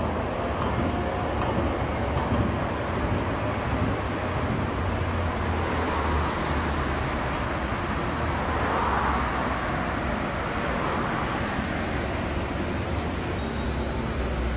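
Steady rumble of a tram and road traffic in a city street.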